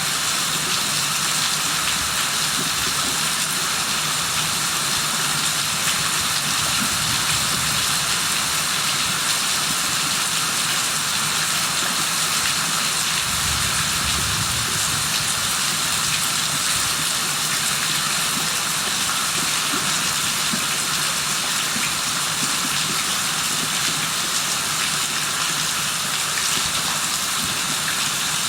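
Steady rain falling, an even hiss of many drops. About halfway through there is a brief low rumble underneath it.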